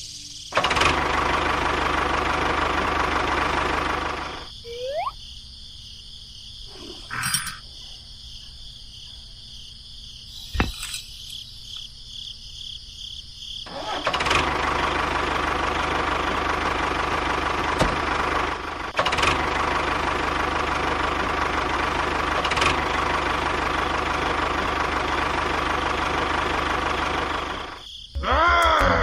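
A motor running steadily for about four seconds, stopping, then starting again around fourteen seconds in and running until it cuts off near the end. A few clicks come in the quiet gap.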